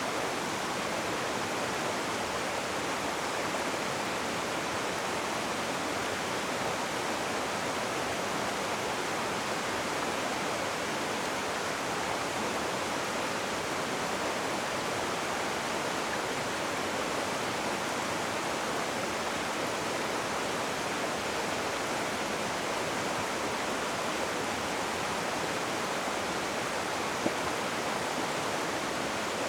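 Rushing water, a steady, even hiss with no changes.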